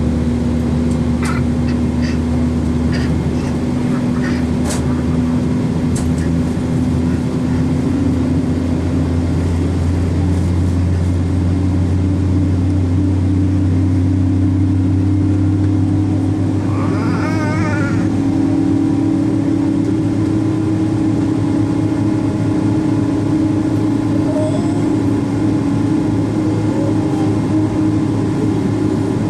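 Cabin noise inside a Boeing 777-200 with the engines running steadily at low power: a loud, even drone with a low hum that rises slightly about a third of the way in. A few light clicks come early on, and a brief warbling sound is heard a little past halfway.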